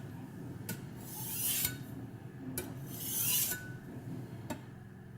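Knife blade drawn across a Spyderco Medium ceramic bench stone in slow sharpening passes: two hissing scrapes about two seconds apart, with light ticks of the blade against the stone between them.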